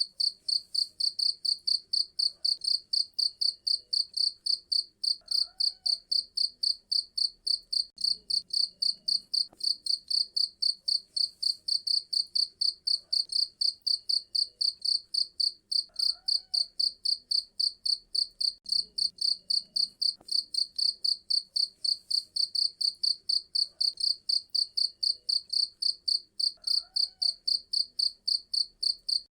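Cricket chirping steadily in a fast, even rhythm, about three high-pitched chirps a second.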